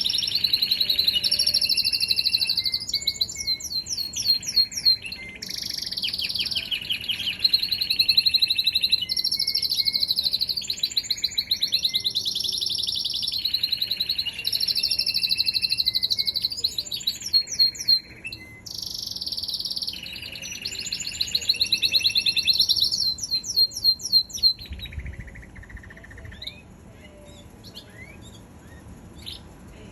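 Canary singing: long phrases of rolling trills and rapid repeated notes, high-pitched, with short breaks between phrases. The song stops about 25 seconds in, leaving faint scattered chirps.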